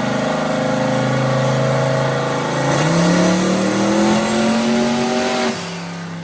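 Turbocharged small-block Ford V8 pickup running hard on a chassis dyno: steady engine note, then about three seconds in the revs step up and climb under load until the throttle closes sharply near the end. A dyno pull made while setting the boost controller.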